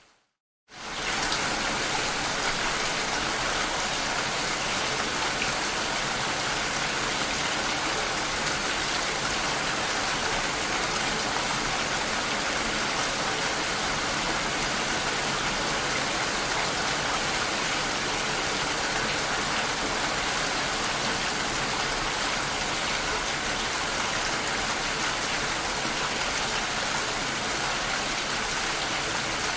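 Steady rain heard through a glass door, an even hiss of falling water. The sound cuts out for a moment at the very start and comes back within about a second.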